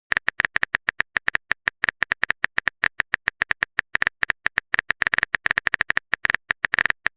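Typing sound effect: a fast, slightly uneven run of keyboard clicks, about eight or nine a second.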